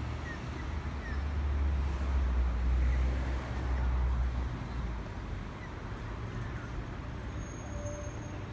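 Low rumble of an electric suburban train approaching along the line, swelling for a few seconds in the middle and then easing.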